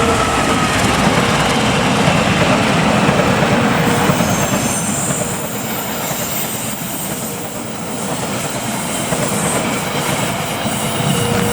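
A train passing close by, its wheels and cars clattering over the rails in a loud, continuous rush that eases slightly around the middle and builds again near the end.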